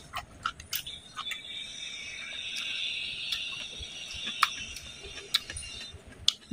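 Close-miked eating with the mouth: chewing a bite of rice and a raw green bean, with a run of sharp wet lip smacks and mouth clicks. A steady high-pitched hum sits faintly behind it for a few seconds in the middle.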